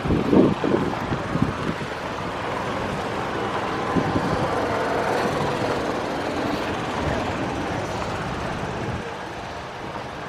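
A motor vehicle running close by: a steady engine-and-road noise that swells a little through the middle and eases off near the end, with a few brief voices at the start.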